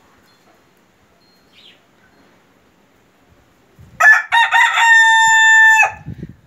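Polish rooster crowing once, about four seconds in: a few short broken notes, then one long held note that cuts off sharply.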